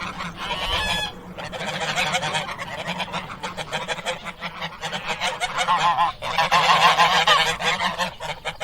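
A flock of farm waterfowl calling continuously, many birds overlapping in a dense chorus of short calls.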